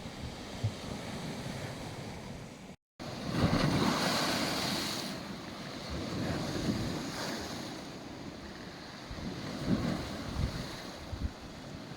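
Black Sea waves washing onto the beach, with wind buffeting the microphone in low thumps. The sound cuts out completely for a moment just before three seconds in, then a wave surges in loudly and slowly subsides.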